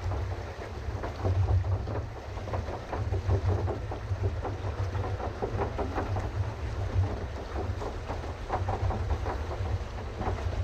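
A pedal boat's paddle wheel churning and splashing the water steadily, over a low, gusty rumble.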